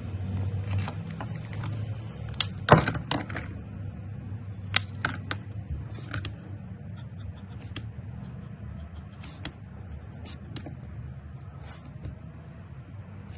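Touch Twin alcohol markers being handled: scattered sharp plastic clicks and taps, with a busy cluster about two and a half to three and a half seconds in, then single clicks every second or two, over a low steady hum.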